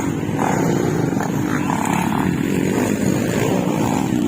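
Motocross dirt bike engines running, their pitch wavering up and down as the throttle changes.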